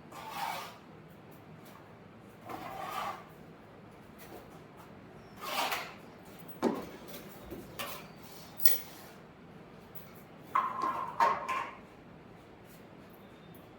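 A handful of short, irregular rubbing and clattering noises, like utensils or a pail being handled, with pauses between them.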